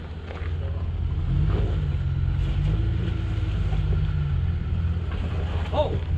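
Jeep Wrangler's engine pulling at low revs as it crawls up and over a rock ledge, revs rising about a second in and easing off a few seconds later.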